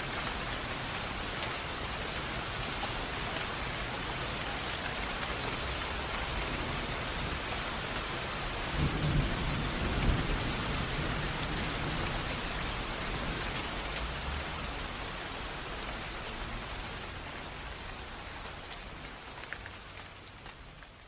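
Steady heavy rain, with a low rumble of thunder rolling through about nine seconds in; the rain then fades out gradually toward the end.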